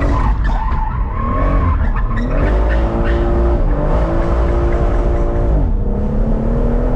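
BMW M140i's turbocharged straight-six driven hard, its pitch climbing and holding high, then dropping sharply about two, four and six seconds in as the revs fall, with tyres squealing.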